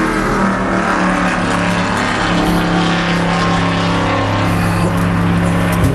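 Stock car V8 engine idling steadily, heard from inside the car's cockpit.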